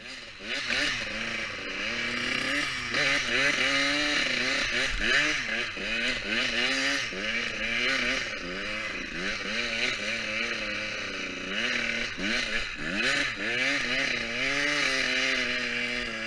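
Motocross bike engine running under load, its pitch repeatedly climbing and dropping back every second or two as it is revved and shifted.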